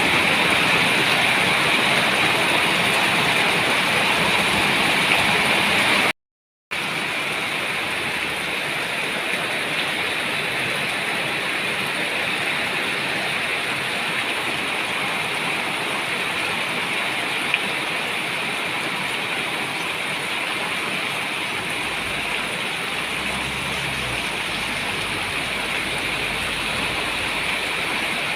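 Steady rain falling, an even hiss of many drops, broken by a brief total gap about six seconds in.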